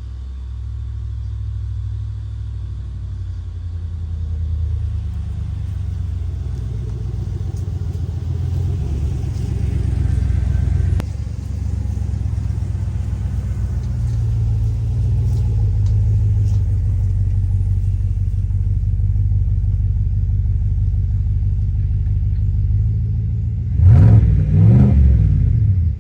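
Engine running with a steady low rumble, then revved up briefly near the end.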